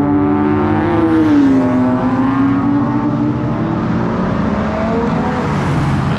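Car engine running under throttle: its pitch dips about a second in, then climbs slowly as it revs.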